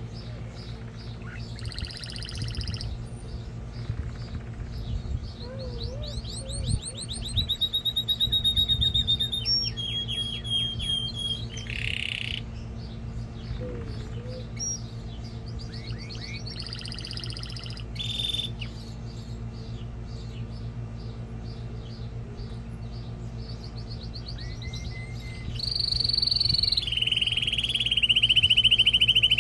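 Domestic canary singing in long phrases of rapid trills and rolls with held high whistled notes, ending in a loud, fast trill. A steady low hum runs underneath.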